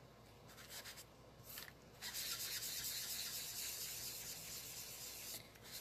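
Ink sponge being rubbed over cardstock: a few short scuffs, then about three seconds of steady rubbing that stops briefly near the end.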